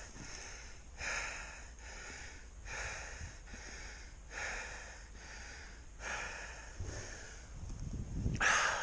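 A person breathing hard and fast close to the microphone, with a breath in or out about once a second and a louder gasping breath near the end.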